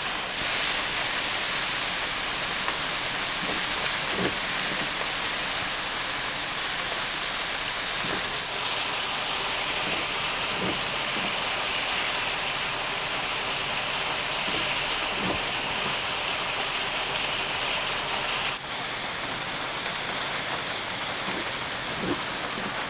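Heavy rain falling: a steady hiss with scattered drops tapping. The sound changes abruptly about eighteen and a half seconds in.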